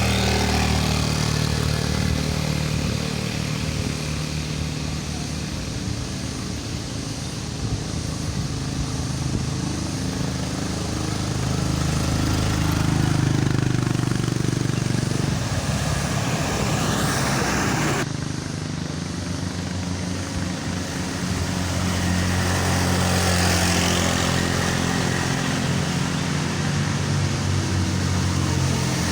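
Motor vehicle engines running on a steep uphill road, their pitch shifting as they pull, with an abrupt change about eighteen seconds in.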